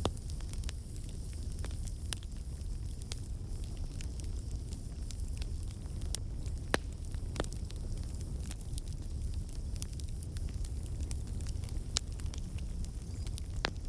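Wood campfire burning: a steady low rumble of flames under scattered sharp crackles and pops from the burning logs, with a few louder snaps among them.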